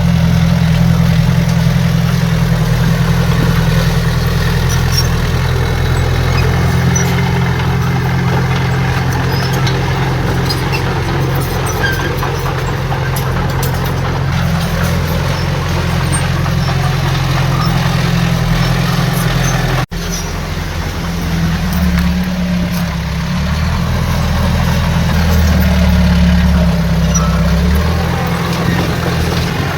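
Heavy diesel engines of earthmoving machinery running steadily at work. The sound breaks off for an instant about two-thirds of the way through, then the engine note resumes with its pitch shifting.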